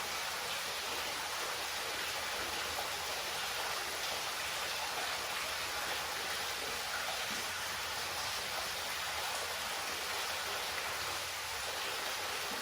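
Steady hiss of running water, like a stream flowing, holding an even level throughout with no separate events.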